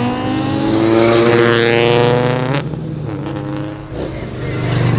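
A car engine accelerating hard, its pitch climbing steadily for about two and a half seconds, then cutting off abruptly with a short sharp crack. A lower, steady engine note carries on after it.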